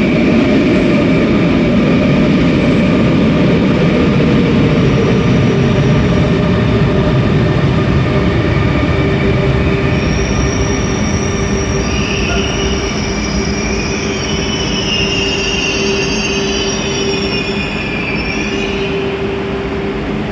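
RER A electric train running through the station with a loud, steady rumble, then high-pitched wavering wheel squeals from about halfway until near the end, over a steady hum.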